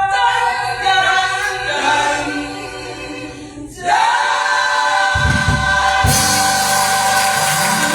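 Gospel choir singing long held chords. The sound dips about three and a half seconds in before a new chord comes in; low accompaniment joins about five seconds in and a high hiss about six seconds in.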